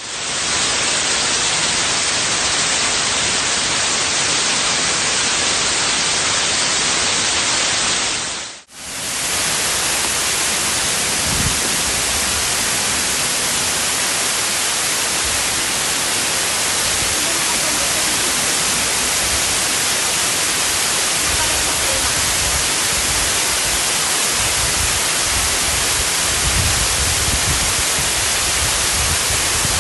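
Waterfall: a steady, dense rush of falling water. It drops out for an instant about eight and a half seconds in, then carries on.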